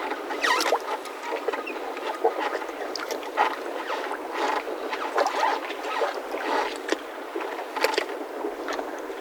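Mooring ropes of boats tied up in a yacht harbour creaking and squeaking under strain as the boats shift. The squeaks come irregularly, several a second at times, some sliding up or down in pitch, over a steady background hiss.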